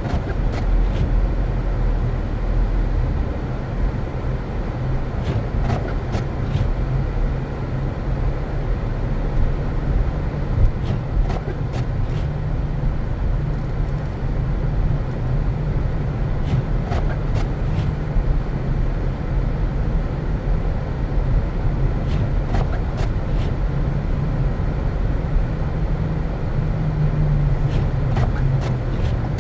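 Car driving on a snow-covered road: a steady low rumble of engine and tyres, with a few faint clicks here and there.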